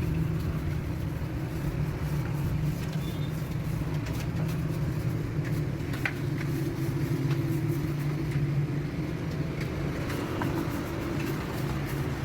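A motor running steadily with a low, even drone and a few faint ticks over it.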